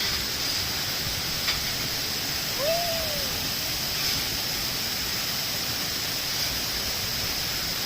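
Steady rushing noise, like running water, with a short rising-and-falling call about two and a half seconds in.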